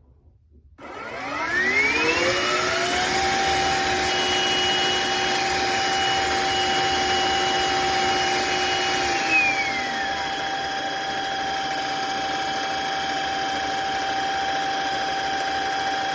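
Shark HydroVac MessMaster cordless wet-dry vacuum switched on: its motor whine rises in pitch for about two seconds after starting, then runs steadily. About nine seconds in, one of its tones winds down while the main whine carries on.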